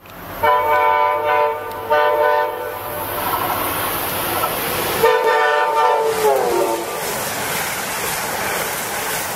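Amtrak passenger train sounding its multi-note horn: two short blasts, then a longer one about five seconds in that drops in pitch as the train passes. Under and after the horn is the steady rush of the coaches going by at speed.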